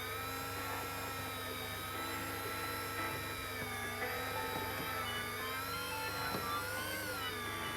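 Electric fishing reel's motor whining steadily as it winds in a heavy fish from deep water, its pitch wavering a little with the load and rising briefly near the end.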